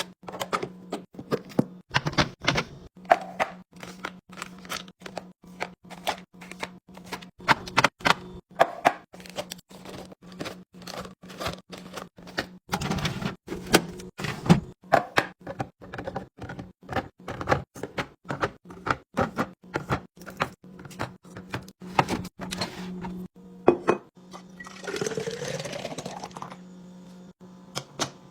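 Plastic and glass containers and food packages being handled and set down while a fridge is restocked: a quick run of clicks, taps and knocks over a steady low hum, with a longer sound of shifting pitch about twenty-five seconds in.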